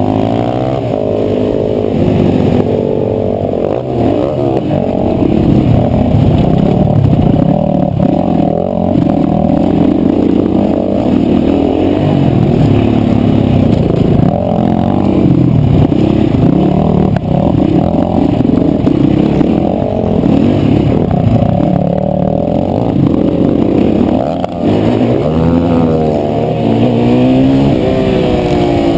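KTM 525 single-cylinder four-stroke engine revving hard and dropping back again and again as the supermoto is ridden at race pace through the gears, heard close up from the bike itself. It pulls up in pitch strongly several times near the end.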